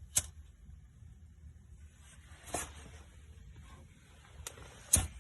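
A few short, sharp clicks and scrapes about two and a half seconds apart, the loudest near the end, over a low steady rumble: handling at a wood-burning fireplace firebox as the fire is being lit.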